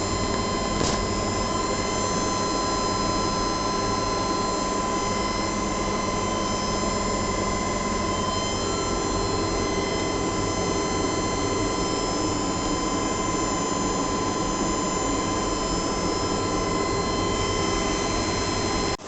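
Vertical machining centre running, a steady mechanical hum and fan noise with several high steady whining tones.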